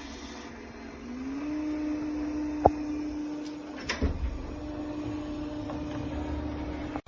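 ECOVACS Deebot T50 Omni robot vacuum running with a steady motor hum that steps up in pitch about a second in and then holds. A sharp click comes near the middle and a few knocks follow about a second later.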